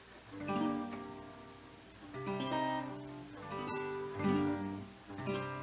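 Acoustic guitar strummed slowly, about four chords with each left to ring out before the next.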